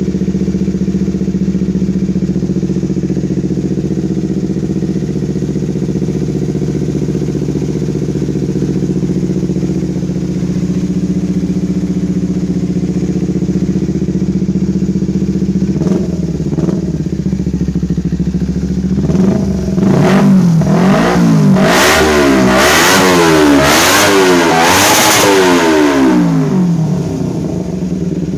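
Motorcycle exhaust at a steady idle for about fifteen seconds, then two short throttle blips, followed by a run of about six quick revs rising and falling before it settles back to idle.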